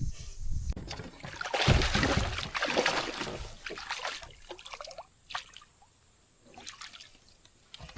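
Water splashing and trickling at the side of a kayak for about three seconds, then it goes quiet apart from a few faint clicks.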